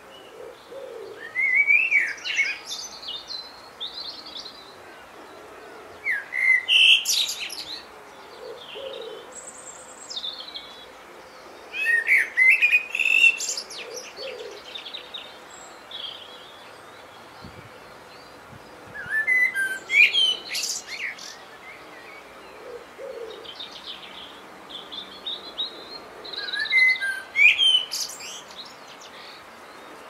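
A songbird singing five bursts of quick, varied warbling phrases, one about every six to seven seconds. Between the songs a fainter, low short call repeats.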